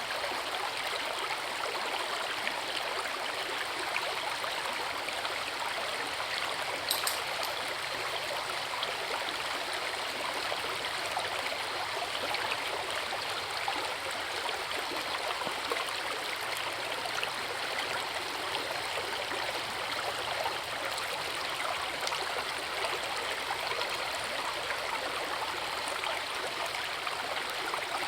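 Forest river and waterfall: water rushing in a steady, even stream, with one brief high click about seven seconds in.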